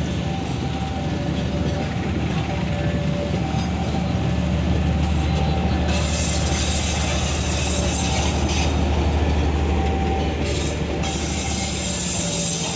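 A train going by: a steady low locomotive engine drone with wheel and rail noise, and a loud hiss from the wheels that comes in about six seconds in. Thin, faint wheel-squeal tones come and go on top.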